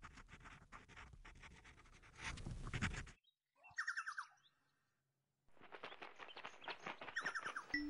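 Birds chirping over a dense scratchy clicking, cut into edited snippets: the sound stops abruptly about three seconds in, a short quick trill sounds about a second later and fades to silence, and the chirping and clicking return for the last couple of seconds with another quick trill near the end.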